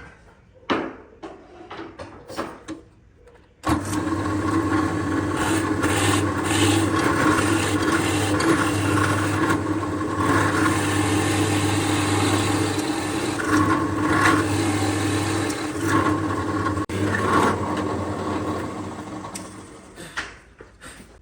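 A few light knocks, then about four seconds in an electric power tool starts and runs steadily on wood for about sixteen seconds, fading out near the end.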